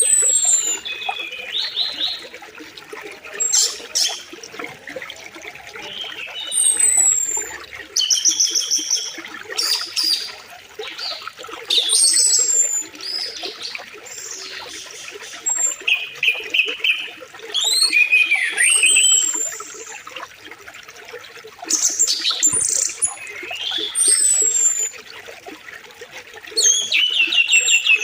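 Several birds singing and calling in short repeated phrases of falling whistles and trills, over the steady rush of flowing river water.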